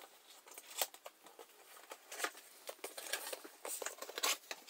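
An unboxing of a retail box, its packaging handled by hand: irregular rustling, scraping and small clicks, with a few sharper taps about a second in and near the end.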